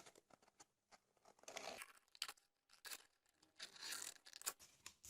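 Scissors cutting a flame shape out of card stock: faint, irregular snips and paper rustling.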